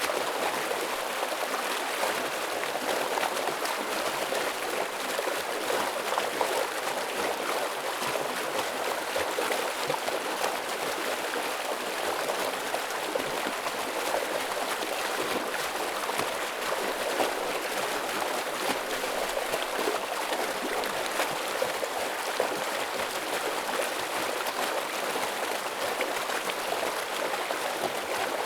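Stream water rushing and splashing over rocks: a steady, dense flow.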